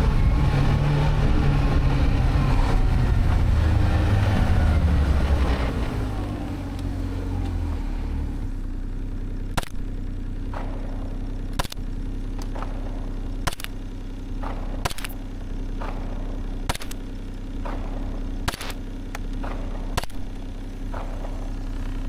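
Music fades out over the first several seconds, leaving a steady engine drone. Sharp clicks cut through the drone every second or two.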